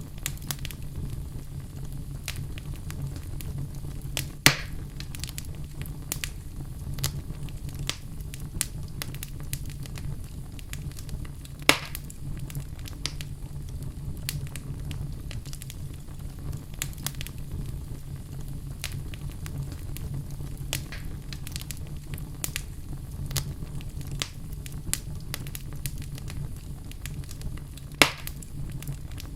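Wood fire burning in a fireplace: a steady low rumble with a constant scatter of small crackles, and three louder sharp pops, at about four and a half, twelve and twenty-eight seconds in.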